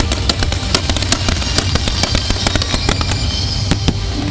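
Fireworks crackling and popping in quick succession, many sharp reports a second, over loud music.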